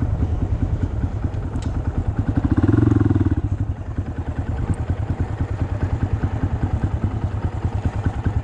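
Honda Monkey's single-cylinder four-stroke engine running at low revs with a quick, even pulse, swelling briefly louder for about a second around three seconds in.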